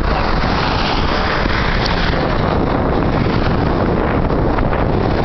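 Steady, loud rushing of wind buffeting the microphone.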